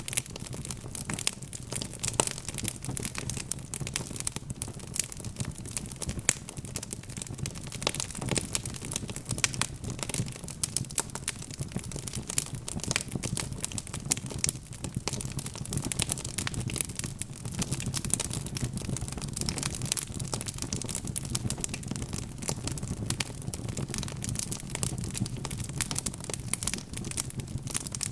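Wood fire crackling steadily in a fireplace: many small, irregular pops and snaps over a low, even rumble of burning logs.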